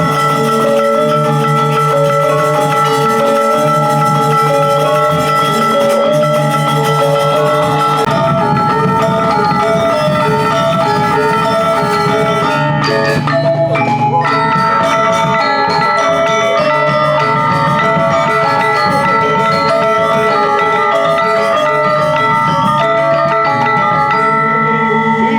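Balinese gamelan orchestra playing live for a dance: bronze metallophones ring in a dense, steady pattern of repeated notes.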